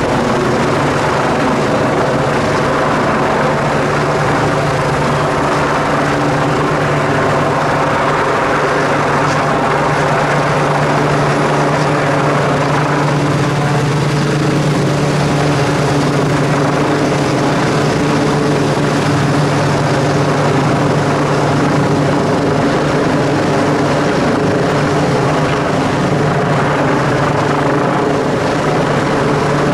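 Helicopter hovering for a winch rescue, its rotor and turbine making a steady, even drone throughout.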